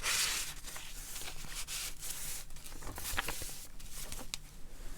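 Paper rustling as the pages, envelopes and tickets of a handmade junk journal are handled: a longer rustle at the start, then softer rustles and small clicks and taps.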